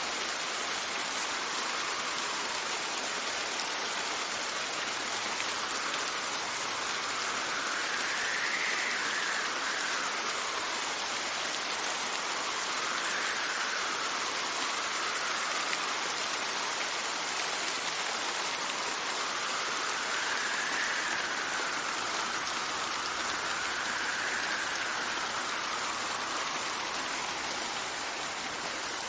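Steady rain with wind, the wind swelling and easing in slow gusts about five times.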